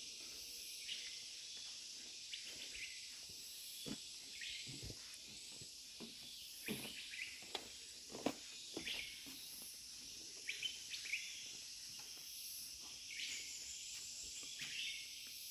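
Rainforest ambience: a steady high-pitched chorus of insects, with short bird chirps and scattered soft knocks throughout.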